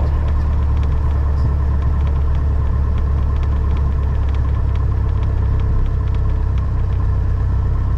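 Piper Cherokee 180's four-cylinder Lycoming O-360 engine idling steadily at about 1,000 RPM, a low steady drone heard from inside the cockpit. The engine is new and on its second day of break-in.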